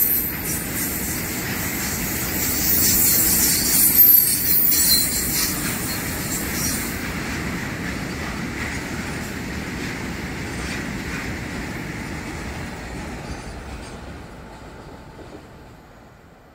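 Freight train of tank wagons passing close by, its wheels running on the rails with a high-pitched screech for about the first seven seconds. The rumble then fades steadily as the last wagons and the brake van pull away.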